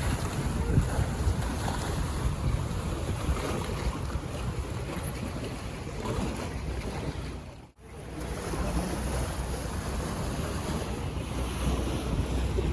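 Wind buffeting the microphone over water rushing past a boat: a steady, noisy rumble. It drops out for a moment about eight seconds in.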